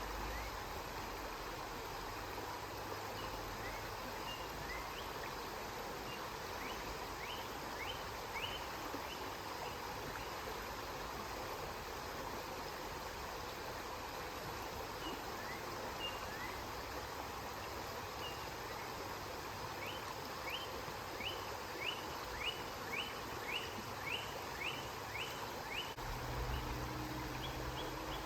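River water flowing steadily, with a bird calling in short sharp notes at intervals and a quick run of about a dozen notes near the end. A low hum comes in during the last couple of seconds.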